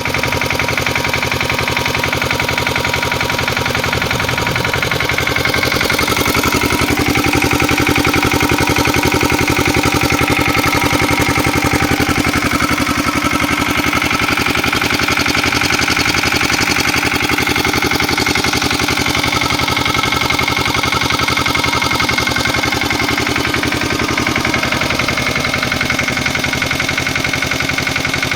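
Lombardini engine of a small tractor running steadily, its revs shifting a few times as the tractor is worked in mud.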